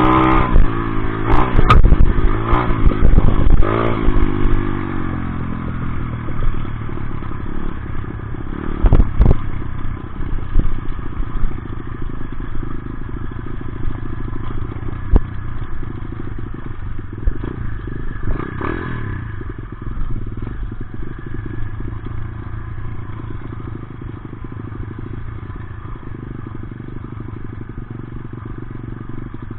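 Dirt bike engine revving up and down in the first few seconds, then running at a lower, steadier pace with clattering and a few knocks.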